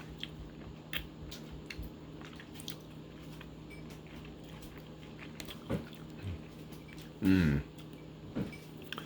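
Close-up chewing of a ripe Rainier cherry: small wet mouth clicks and smacks throughout, with a brief hum of the voice about seven seconds in.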